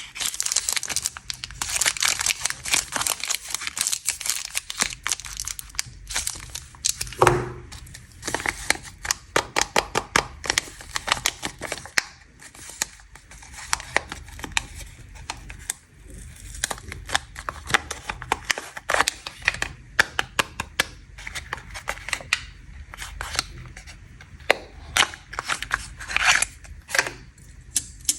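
Plastic snack wrappers being torn open and crinkled by hand: a dense run of crackling rustles and sharp clicks that comes and goes.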